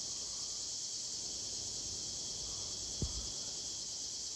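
A chorus of cicadas (the 'locusts') buzzing in an even, continuous high-pitched drone. A single brief low thump comes about three seconds in.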